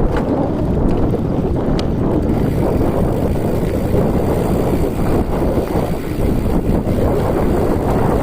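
Loud, steady wind buffeting the microphone, a dense rumbling hiss with a few faint ticks in the first two seconds.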